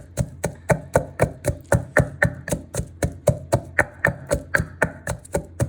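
Pestle pounding dried chilies and garlic in a mortar: a steady rhythm of sharp knocks, about four a second.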